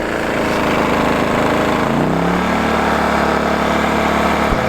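Wen 2000-watt inverter generator running in eco (quiet) mode. Its engine note rises about two seconds in and then holds steady, over the steady fan of a 12-volt rooftop air conditioner.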